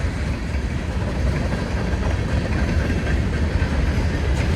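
Freight train of mostly empty cars rolling past, a steady rumbling and rattle of wheels on rail, with heavy rain falling.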